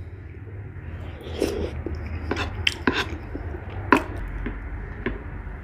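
Eating sounds: a spoon clicking and knocking against a bowl of chili beans, about half a dozen sharp taps, the loudest a little before the end.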